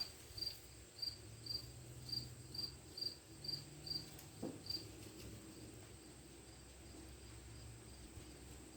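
A cricket chirping faintly, about two short high chirps a second, stopping about five seconds in, over a faint low hum.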